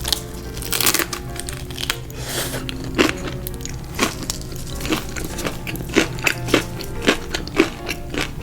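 Close-miked crunching and chewing of crispy fried food, a string of sharp, irregular crunches with a louder crackly stretch in the first second, over background music.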